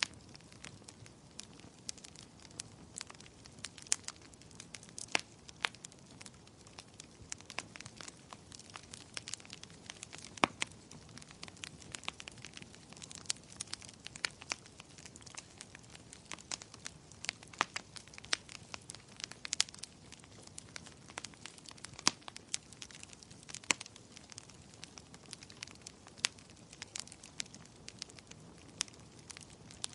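Wood fire crackling in a fireplace: irregular sharp pops and snaps, a few every second and some louder than the rest, over a faint steady hiss of the burning logs.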